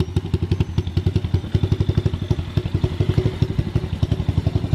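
Yamaha TT-R90 pit bike's small four-stroke single-cylinder engine idling steadily with a quick, even putter. The engine is warm after a short ride and holds a smooth idle.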